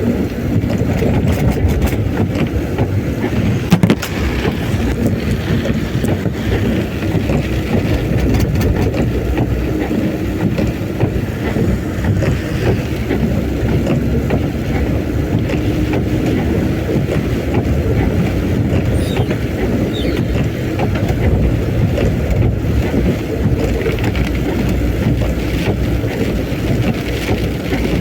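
Steady, loud noise of travelling along a road in heavy rain and strong wind: a low rumble of vehicle and wind, with a few scattered ticks.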